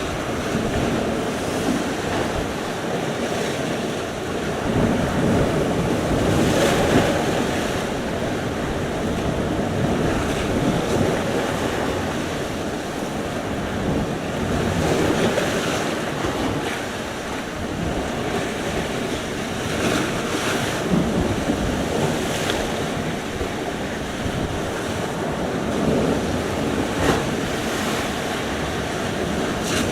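Sea surf: waves breaking and washing on the shore, swelling and falling every few seconds, with wind buffeting the microphone.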